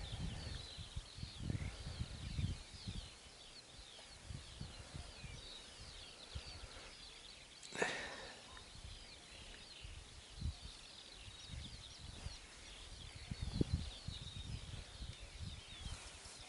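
Small birds chirping continuously in the background, with irregular low rumbles of wind on the microphone and a single sharp click about eight seconds in.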